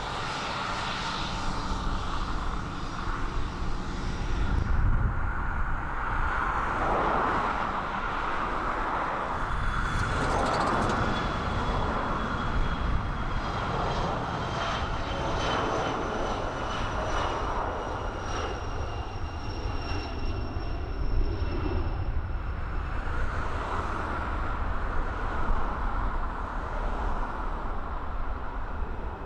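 Aircraft engines passing by: a steady roar and rumble with a high whine that slowly falls in pitch over several seconds.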